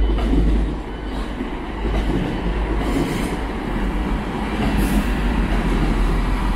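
A TransPennine Express Class 185 diesel multiple unit passing close by, its underfloor diesel engines and wheels on the rails making a continuous deep rumble. Brief sharper rail noises come about three and five seconds in.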